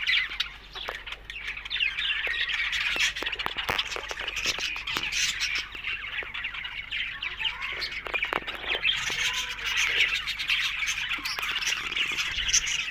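Budgerigars chattering and warbling continuously, a dense stream of rapid chirps, squawks and clicks.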